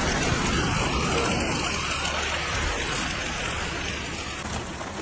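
Storm downpour pelting down: a dense, steady hiss of rain that eases slightly toward the end.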